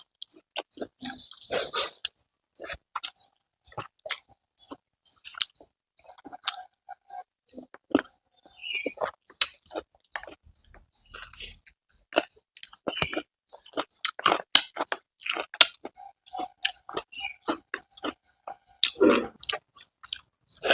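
Close-miked eating: wet chewing and lip smacks, a quick run of short clicks with a few louder slurps.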